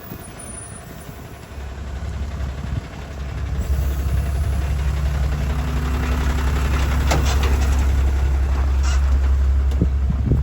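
Box truck engine running with a steady low hum, building up over the first few seconds and then holding, with a couple of short hisses near the end.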